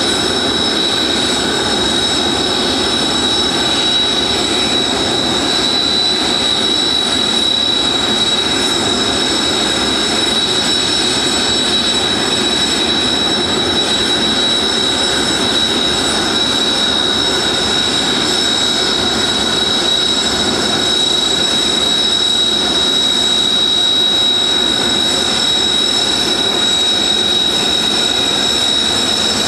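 Turbofan engines of Kawasaki T-4 jets running steadily on the ground, a constant high whine over a broad rush.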